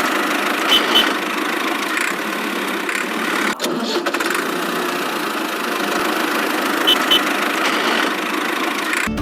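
A small motor running steadily, with two pairs of short high chirps, one about a second in and one about seven seconds in.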